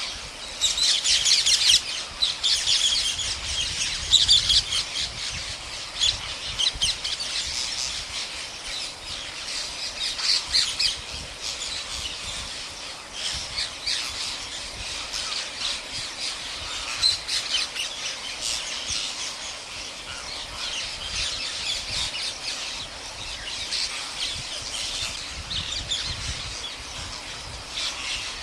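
A large flock of parrots squawking together, a dense chorus of harsh, overlapping calls that is loudest in the first few seconds and then goes on a little softer.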